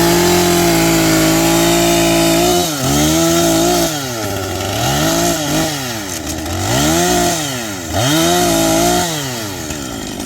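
Chainsaw held at high revs for about two and a half seconds, then revving down and up again several times while cutting a piece of wood.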